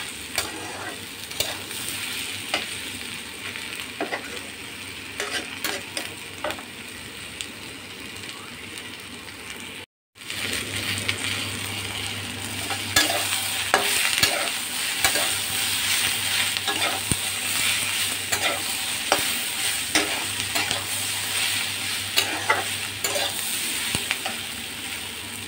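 Ivy gourd pieces sizzling as they fry in oil in a nonstick pan, while a spatula stirs and scrapes them with frequent light clicks against the pan. There is a split-second gap about ten seconds in, after which the sizzle is louder.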